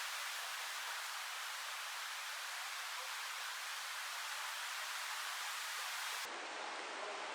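Steady, even rushing outdoor noise with no separate events. About six seconds in it changes abruptly to a duller, fuller rushing noise, as at a cut between clips.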